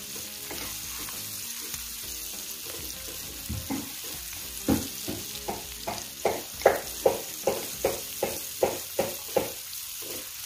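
Sliced onion and garlic sizzling in melted margarine in a nonstick pan while a spatula stirs them. From about four seconds in the spatula strokes come regularly, about two or three a second.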